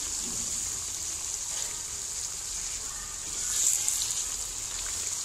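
Chicken pieces and spice masala frying in hot oil in a kadai, a steady sizzle that swells for a moment a little past halfway as the pieces are stirred.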